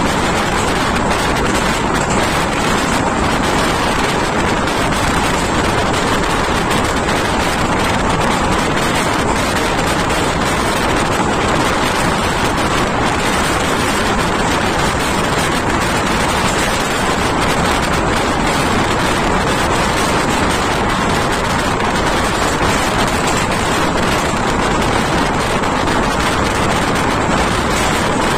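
Steady running noise of a passenger train at speed, heard from on board: wheels on the rails mixed with rushing wind, at an even level throughout.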